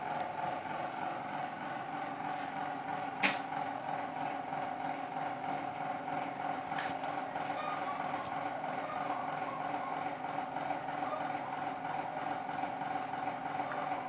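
A steady mechanical hum, with one sharp click about three seconds in.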